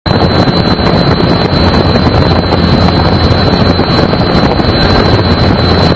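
Helicopter turbine engine and rotor noise, loud and steady, with a constant high-pitched turbine whine over the rush.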